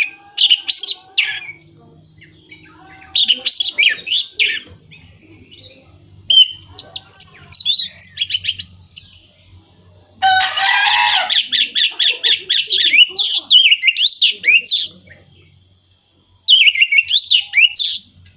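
Orange-headed thrush singing: fast, varied phrases of whistled and chirping notes in bursts separated by short pauses, with a longer run of dense, harsh chattering about ten seconds in.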